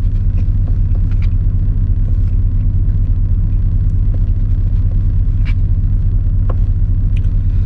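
Steady low engine rumble in a parked semi truck, with a couple of faint knife clicks as steak is sliced.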